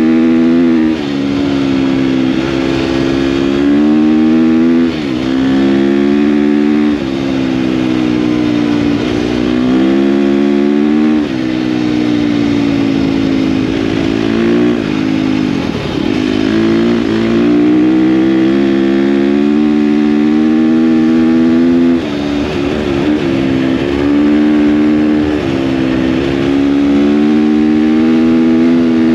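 KTM dirt bike engine under way, its revs repeatedly climbing and then dropping as the rider shifts and rolls off the throttle every few seconds, with a deeper dip about halfway through.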